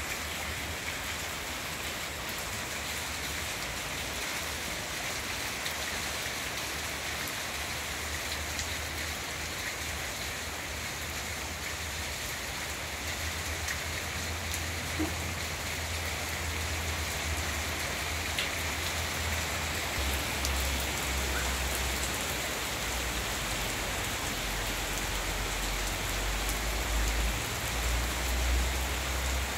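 Rain falling steadily on garden plants and leaves, an even hiss, with a low rumble coming in from about halfway through.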